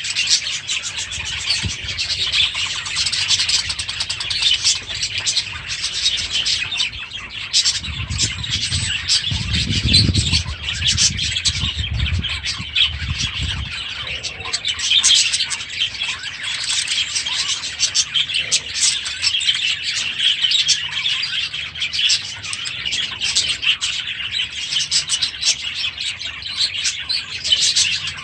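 A flock of small aviary birds chirping and chattering continuously. A low rumble joins in for a few seconds from about eight seconds in.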